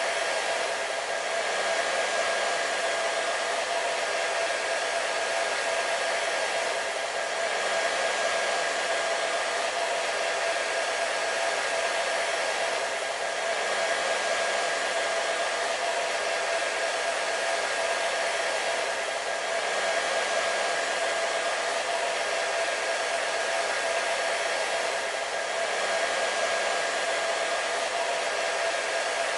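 Hair dryer running steadily: an even airy rush with a faint steady motor whine under it, swelling slightly about every six seconds.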